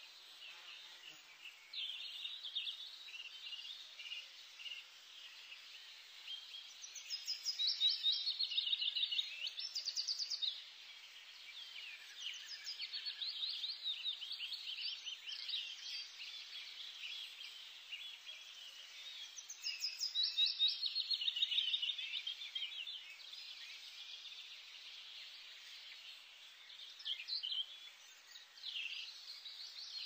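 Small birds chirping and trilling, with two louder spells of rapid trills about 8 and 21 seconds in.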